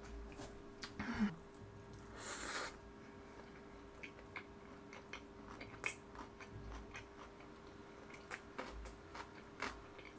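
Close-miked eating sounds: a swallow of a drink from a plastic cup about a second in, a short breathy noise, then chewing of a full mouthful with small wet mouth clicks.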